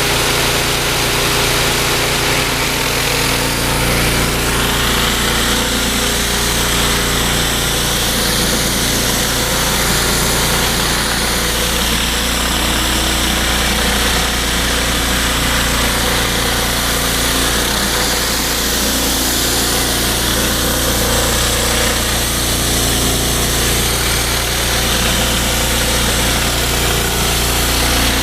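Loncin 14 hp petrol engine running steadily, driving a belt-driven 3000 psi pressure-washer pump, with the hiss of high-pressure water spray, stronger from about four seconds in.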